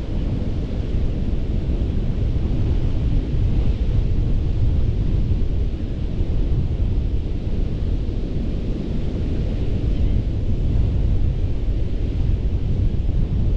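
Ocean surf breaking and washing on a sandy beach, a steady roar with heavy wind rumble on the microphone.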